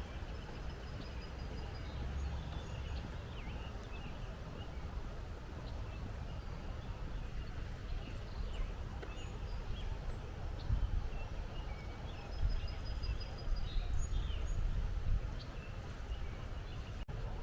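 Outdoor ambience of small birds chirping, with a rapid high trill near the start and again about halfway, over a steady low rumble that swells for a few seconds past the middle.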